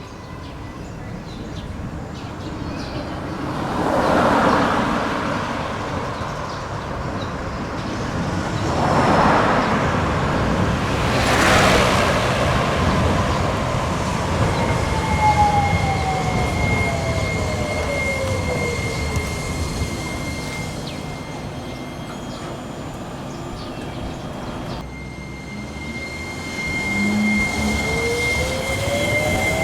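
Low-floor tram with electric traction motors, Hiroshima Electric Railway's 5100-series car 5101. Its motor whine falls steadily in pitch as it slows, then rises again near the end as it pulls away, over passing road traffic.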